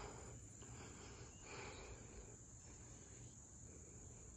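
Near silence, with faint crickets chirring in a steady, high-pitched trill.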